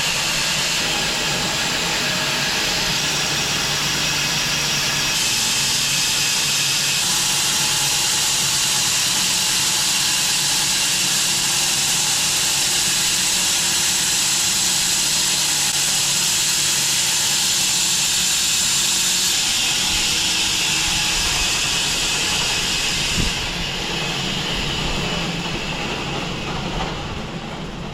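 Home-built 6 ft wide Matthew Cremona-style bandsaw mill running, its blade sawing through an English walnut log with a steady, loud hiss over a low drone. About 23 seconds in the sound drops and thins out, as the cut ends.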